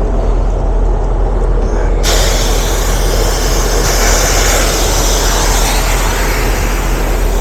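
Pressurised gas hissing steadily out of a refrigerant gauge hose's low-loss fitting, starting suddenly about two seconds in, over a steady low drone.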